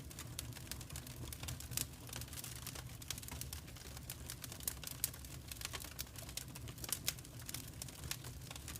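Wood fire crackling in a fireplace: many quick, irregular pops and snaps over a low steady rumble of the flames.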